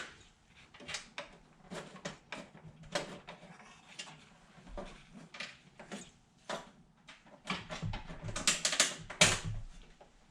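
Scattered light clicks and clinks of small metal hardware and tools being handled and rummaged through, with a quick run of rattling clicks about eight seconds in.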